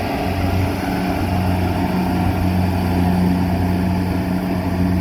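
Engine of a rice harvesting machine running steadily under load, with a constant hum whose pitch rises slightly a little over a second in and then holds.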